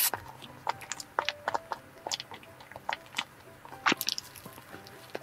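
Close-miked chewing of a soft cream-filled white-bread sandwich: irregular wet mouth clicks and smacks, with louder ones right at the start and about four seconds in.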